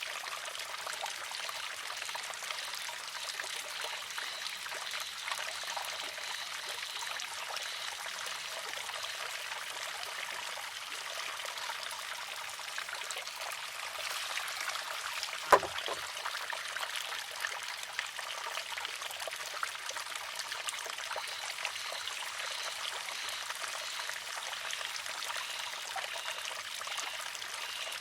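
Water trickling and pouring steadily from the spout of a wooden shishi-odoshi. A little past halfway, a single sharp wooden clack as the water-filled arm tips, empties and strikes its rock.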